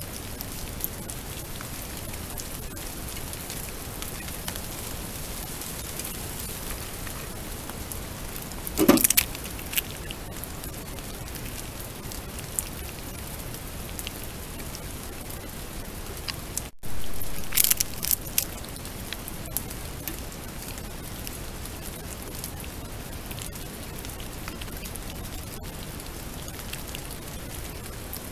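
Heavy rain falling steadily. A louder knock comes about nine seconds in, and a short run of knocks and clatters shortly after the middle.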